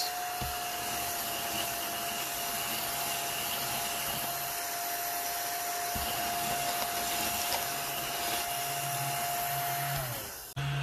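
Cordless mini desktop vacuum cleaner running with a steady high whine over a hiss of airflow as it picks up glitter. About ten seconds in, its pitch falls as the motor winds down.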